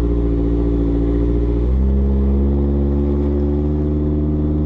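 Engine of a Hyundai Sonata fitted with an eBay turbo kit, under way. Its note drops in pitch suddenly a little under two seconds in, as at a gear change or lifting off, then slowly rises again. The occupants say it runs awful and can barely get into the power.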